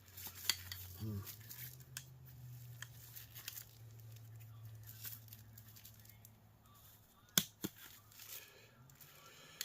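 A hand tool cutting and prying at the copper pieces of a scrapped electric heater: scattered sharp clicks and snaps, the loudest a little past seven seconds in, over a low steady hum.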